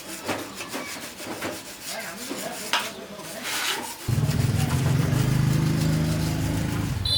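Irregular rubbing and scraping by hand, then about four seconds in a motor starts abruptly and runs with a loud, steady low hum.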